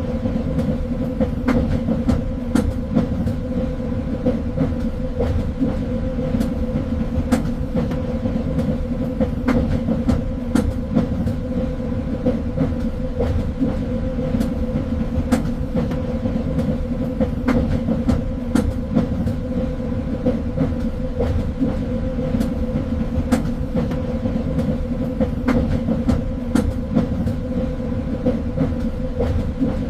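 Train running along the track: a steady low rumble with a constant hum, and irregular clicks and clacks from the wheels on the rails.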